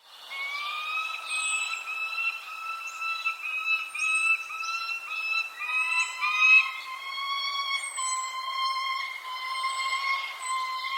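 Birds calling: a rapid series of clear, pitched notes, about two or three a second, with a second, lower and more drawn-out series of notes taking over about halfway through. Short, thin, high chirps sound over the top. The calls start suddenly after a moment of silence.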